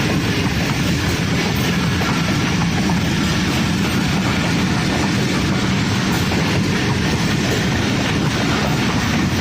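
Passenger express train running slowly through a station, its wheels rattling steadily on the track.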